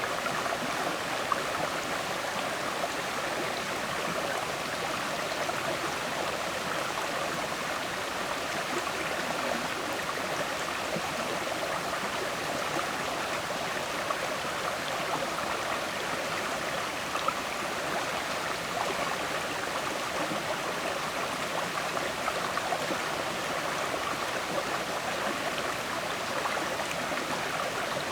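River water flowing over stones, a steady rushing babble with small splashes and gurgles.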